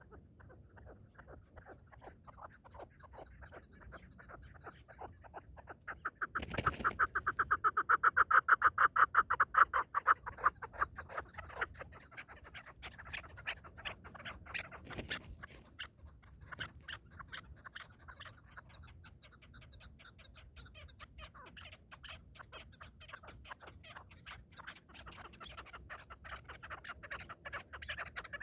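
Partridge calling in a long, fast run of repeated clucking notes, loudest for several seconds about a third of the way in, then carrying on more softly. Two sharp knocks cut in, one as the calling peaks and one about halfway through.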